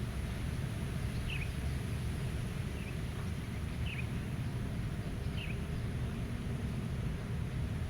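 Wind blowing with a steady low rumble. A bird gives four short, faint, falling chirps about a second apart over it.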